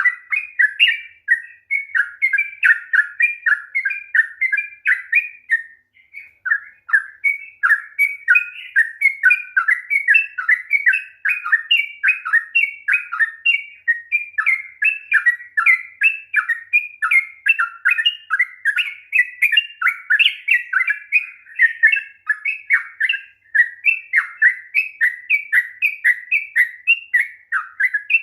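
Yellow-vented bulbul (trucukan) singing a long, rapid, unbroken run of quick chattering notes, several a second, with one short break about six seconds in.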